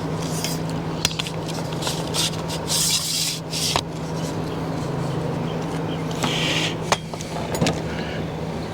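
Rubbing and scraping sounds with a few sharp clicks, over a steady low hum.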